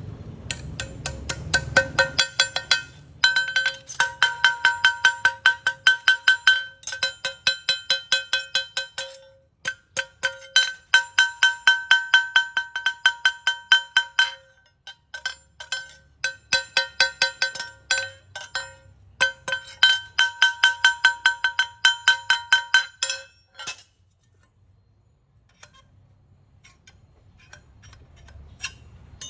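Rapid hammer blows on metal, about five a second, each blow ringing at the same bright pitch, in runs of several seconds with short breaks, as the steel of a rubber-tapping knife is hammered into shape. The hammering stops about 24 seconds in.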